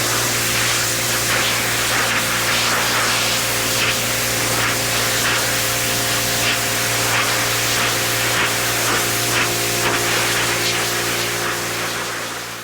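Pressure washer running steadily, its spray jet hissing loudly against the wooden fence over a constant motor hum.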